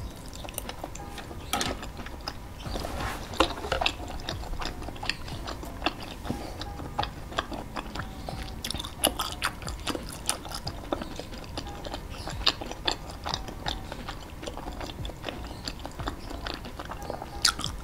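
Close-up chewing of saucy meatballs: a run of wet mouth clicks and smacks as the meatball is chewed, with one sharper click near the end.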